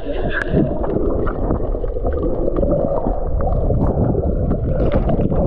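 Water sloshing and gurgling around a small boat: a steady, loud low rush with scattered small knocks.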